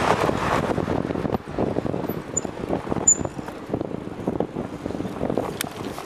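Rushing wind buffeting the microphone with city traffic noise, heard from a bicycle ridden fast through city streets.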